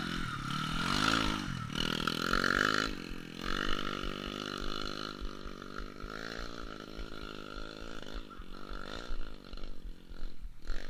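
Off-road trail motorcycle engine revving, its pitch rising and falling sharply over the first few seconds, then running more steadily with small surges.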